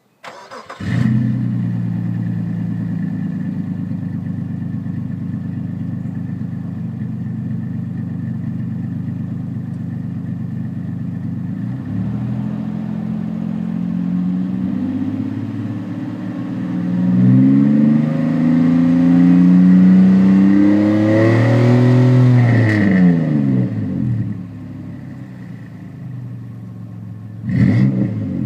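1999 Infiniti QX4's 3.3-litre V6 running through a Flowmaster 40 Series muffler, with the stock muffler and resonator cut off and a Y-pipe joining the twin pipes. The engine starts about a second in and idles steadily, then is revved several times from about twelve seconds in, loudest in the middle, before settling back to a quieter idle with one more short rev near the end.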